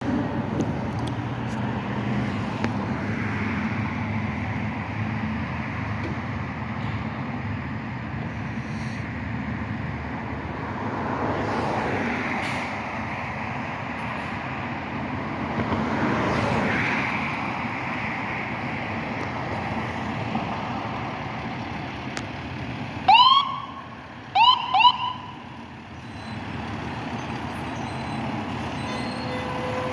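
Road traffic running past, with vehicles swelling and fading. About three-quarters of the way in, a fire engine's siren gives three short rising chirps.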